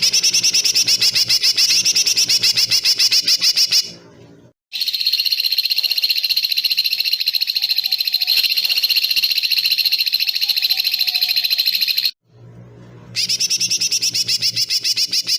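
Recorded small-bird trills used as masteran for training songbirds: a loud, high, rapid pulsed trill, then after a brief break a longer steady buzzing trill, then the pulsed trill again. Each part starts and stops abruptly.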